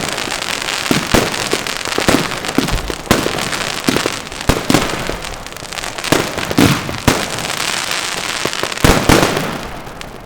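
Nordlicht "Hooligan" fireworks battery firing: a rapid run of sharp bangs over a continuous hissing crackle, with a dense cluster of bangs near the end before it eases off.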